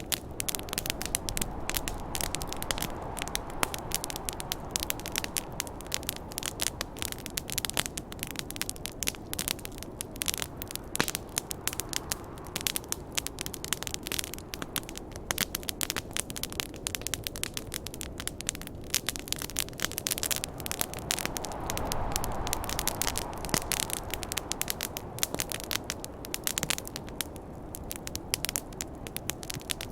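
Wood fire crackling with many quick, irregular pops, over the steady rush of snowstorm wind that swells twice, near the start and about two-thirds of the way through.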